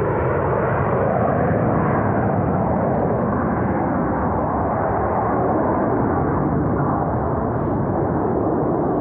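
Jet engine noise from two Blue Angels F/A-18 Super Hornets, each powered by General Electric F414 turbofans, passing low while flying a double tuckover roll; a loud, steady roar.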